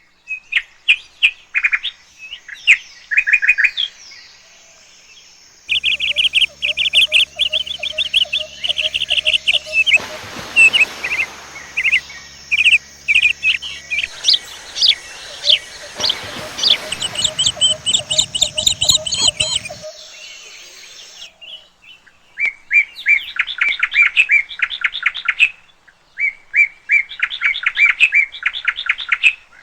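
Birds chirping at dawn: many quick, high chirps in rapid runs, with short lulls between them, and a brief rush of background noise twice in the middle.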